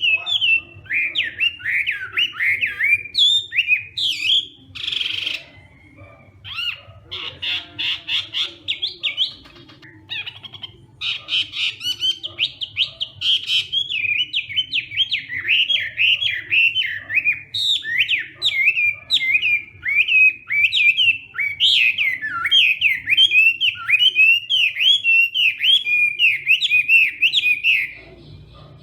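Chinese hwamei (melodious laughing thrush) singing a long, varied song of quick whistled phrases, with a short harsh rasping note about five seconds in and runs of rapid stuttering notes. The song stops just before the end.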